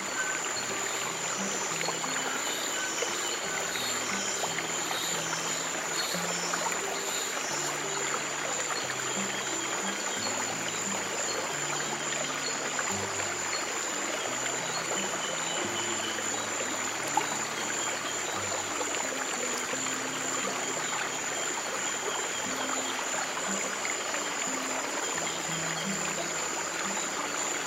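Stream water flowing steadily, with slow, soft piano notes held low in pitch and a steady high tone above.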